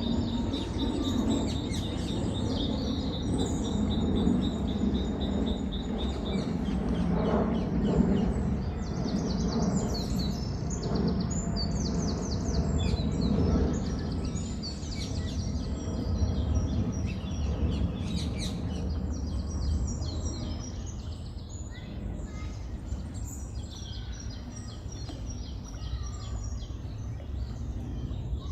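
Several small birds singing and chirping over a steady low background rumble, with a rapid high trill for the first few seconds.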